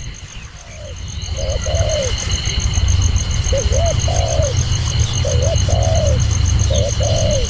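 A dove cooing in short repeated phrases, a couple of quick notes then a longer one, four times. Under it runs a low rumble, with a faint high pulsing tone above.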